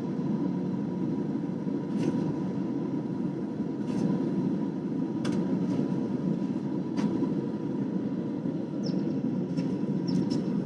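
Forge running with a steady rushing noise and a faint constant hum, with a few faint knocks spaced about every one and a half to two seconds.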